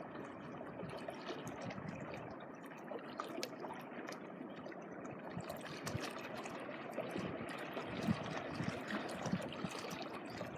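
Small waves lapping at the shoreline of a beach: a steady trickling wash of water with small splashes, a little stronger near the end.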